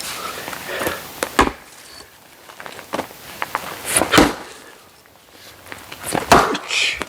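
Oak firewood logs knocking: a few sharp wooden knocks with quieter clicks between, the loudest about four seconds in and another a little after six seconds.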